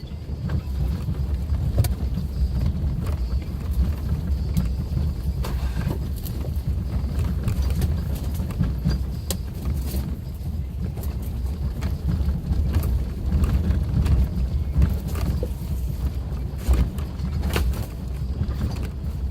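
Suzuki Jimny driving along an unpaved forest road: a steady low drone of engine and tyres, with scattered short clicks and knocks throughout.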